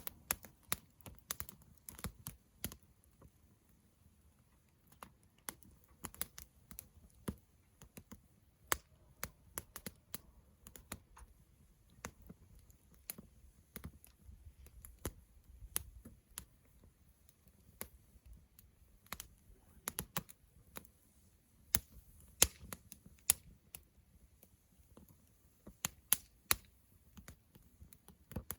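Wood campfire crackling, with irregular sharp pops and snaps over a faint low rumble of the flames. A few pops are much louder than the rest.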